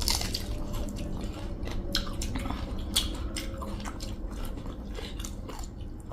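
A person chewing food close to the microphone, with many small irregular clicks.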